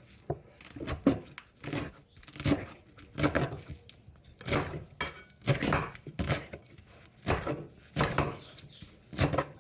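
Knife chopping a bunch of kale on a cutting board: a run of sharp chops, about one or two a second at an uneven pace.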